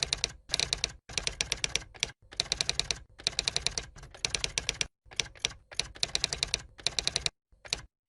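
Typing sound effect: runs of rapid keyboard or typewriter clicks, about ten a second, in short bursts broken by abrupt silent gaps.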